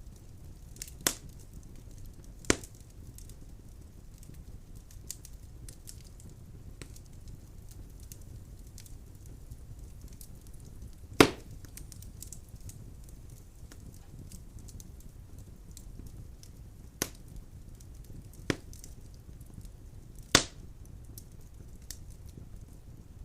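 Wood fire crackling in a fireplace: a low steady rumble of flames with scattered faint ticks and six sharp pops of burning logs, the loudest about eleven seconds in.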